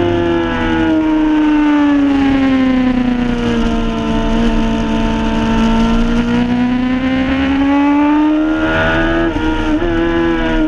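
Suzuki race bike's engine at speed, picked up by a camera mounted on the bike. The note sinks slowly and then climbs again, as the rider rolls through a long corner and gets back on the throttle, with a brief break in the note near the end.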